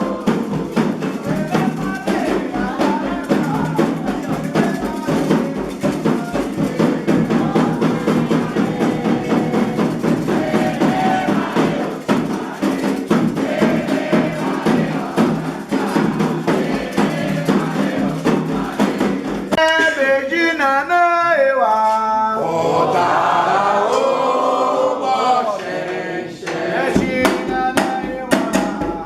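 Candomblé ritual music: hand drums and percussion played in a steady dense rhythm under group singing. About two-thirds of the way through, the drumming drops out for several seconds while voices with a wavering pitch carry on, and then the drums come back in near the end.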